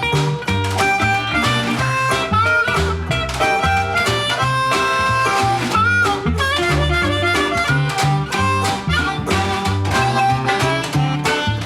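Acoustic blues band playing an instrumental break: a harmonica leads with held, bent notes over resonator guitar, a walking double bass and a steady washboard beat.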